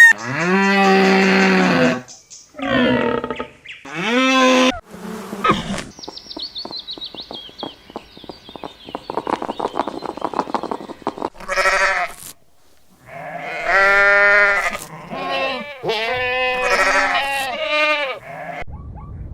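Livestock bleating: a run of separate loud bleats, some long and wavering. In the middle they give way to a stretch of rapid rattling noise, and they resume later.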